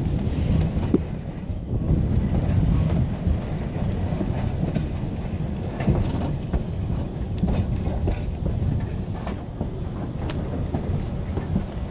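Durango & Silverton narrow-gauge train rolling along the track: a steady low rumble of wheels on rail, with scattered clicks.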